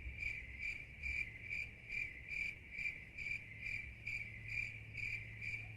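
Cricket chirping steadily, a regular pulse of about two to three chirps a second, over a faint low hum.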